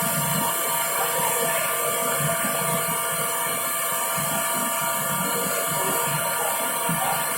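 Power sanding tool running steadily, its abrasive scrubbing against a workpiece, with a constant motor whine over the grinding hiss.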